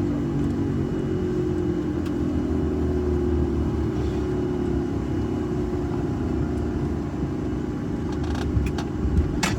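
Inside the cabin of an Embraer ERJ-145: a steady low rumble from the rear-mounted turbofan engines, with a set of tones slowly falling in pitch. A sharp click comes near the end.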